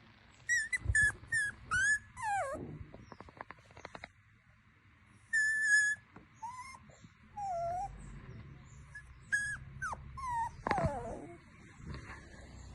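Puppy whimpering and squealing in a string of short, high-pitched cries, several of them sliding down in pitch.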